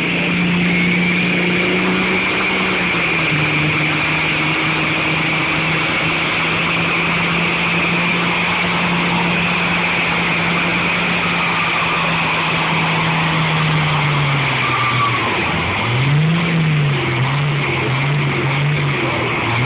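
Pulling truck's engine at high revs under load, holding a steady pitch that steps down slightly about three seconds in and sags after about fifteen seconds. Near the end it is revved up and down several times.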